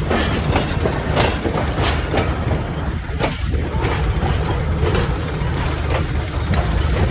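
Train running on the track: a steady low rumble with irregular knocks.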